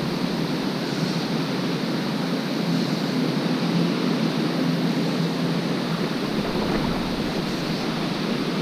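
Steady rush of shallow creek water running over rocks, an even noise that holds constant throughout.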